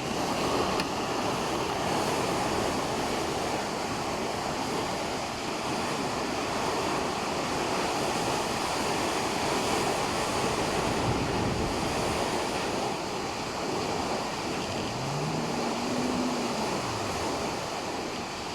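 Heavy rain falling steadily, an even unbroken wash of noise.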